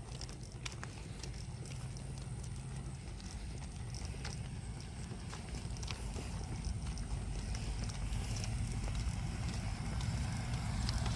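Footsteps on a walk outdoors, sounding as scattered light crunches and clicks over a steady low rumble that slowly grows louder.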